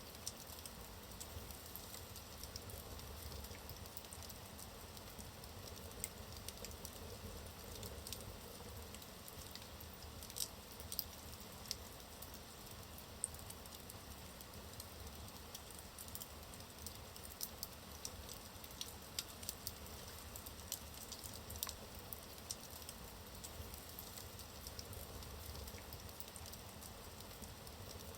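Wood fire burning in a fireplace: logs crackling with frequent small, sharp, irregular pops over a soft steady hiss.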